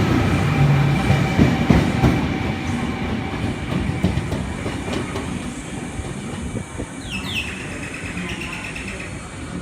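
A train running on the rails, its wheels clacking over the track joints, the sound fading steadily as it moves away. A brief high squeal about seven seconds in.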